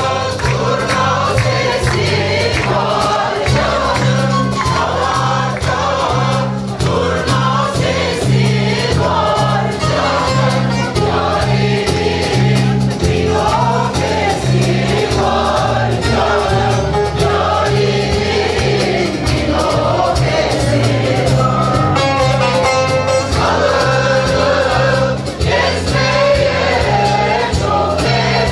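A Turkish folk music choir singing in unison, over instrumental accompaniment that keeps a steady, repeating low rhythm.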